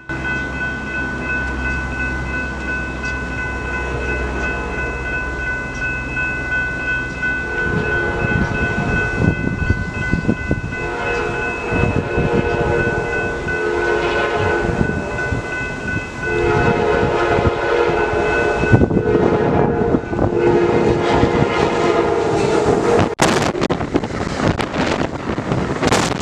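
Amtrak Cascades passenger train passing close by, with a low rumble as it approaches and then wheels knocking over the rail joints. Its horn sounds several times in the middle of the pass.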